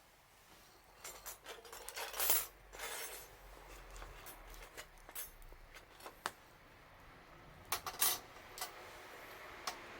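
Irregular sharp clicks and light clinks of hard objects, with the loudest clusters about two seconds in and again around eight seconds in.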